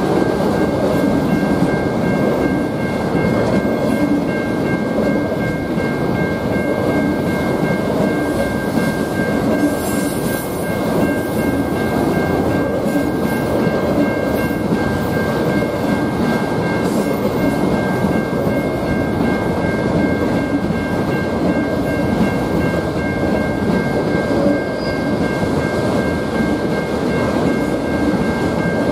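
A train's cars rolling steadily past on the BNSF main line, a continuous rumble of wheels on rail with faint clickety-clack. Two thin, steady high tones sit above the rumble the whole time.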